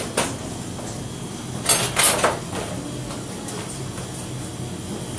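Dishes and utensils clattering, a short burst of clinks about two seconds in and a few lighter clicks later, over a steady low room hum.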